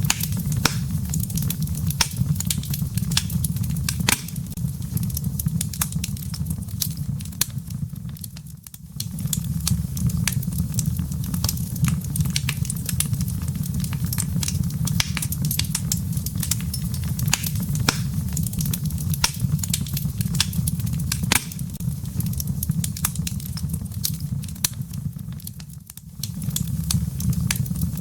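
Wood fire burning in a fireplace: a steady low rumble of flames with frequent sharp crackles and pops from the firewood. The sound drops away briefly twice, about nine seconds in and near the end.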